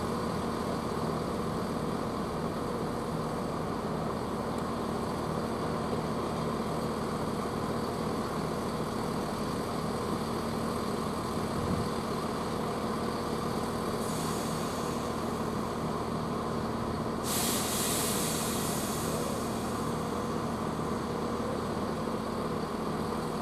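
Class 170 Turbostar diesel multiple unit idling at the platform, a steady engine hum. A short, faint hiss of compressed air comes a little past halfway, then a stronger hiss of about two seconds, typical of the air brakes or air system venting on a train about to depart.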